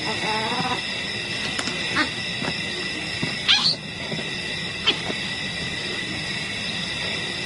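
Steady insect-like drone under a few short animal calls: a pitched cry at the start, then brief sharp calls, the loudest a rising one about three and a half seconds in.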